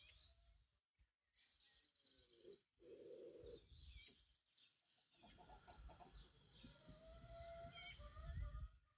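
Faint birdsong: small birds chirping and twittering, with a rooster calling, including one long drawn-out call in the second half.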